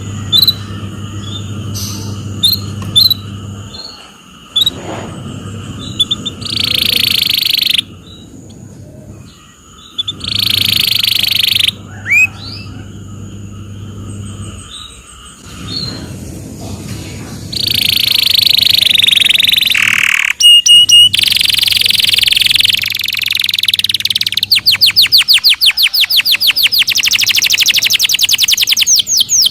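Domestic canary singing a long varied song: short chirps and dense harsh phrases, then a fast rolling trill near the end.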